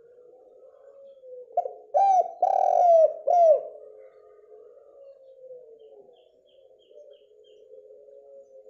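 Spotted dove (derkuku) cooing one phrase about two seconds in: a short lead note, then three loud coos, each ending in a falling slur. A faint steady low hum runs underneath.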